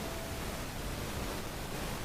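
Steady hiss and low rumble from an outdoor nest camera's microphone, with no calls or distinct events.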